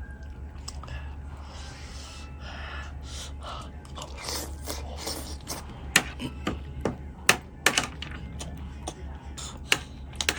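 Someone eating: breathy mouth sounds and a few sharp clicks, the loudest about six and seven seconds in and again near the end, over a steady low hum.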